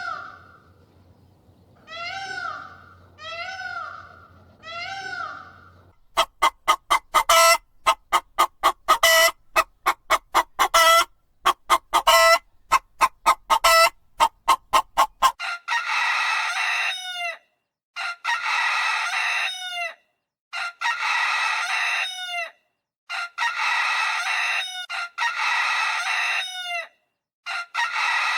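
Chickens: first a few short rising-and-falling calls, then rapid, loud clucking for about nine seconds, then a rooster crowing again and again, each crow about a second and a half long with short gaps between.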